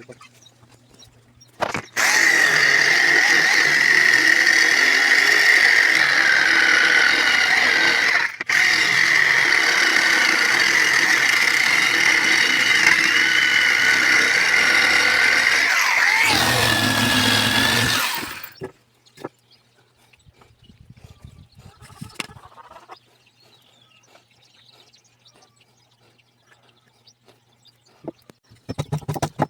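High-speed rotary carving tool running on wood with a steady high whine, its pitch dipping slightly as it bites. It stops briefly after about eight seconds, then runs again until about eighteen seconds. Faint scattered clicks follow.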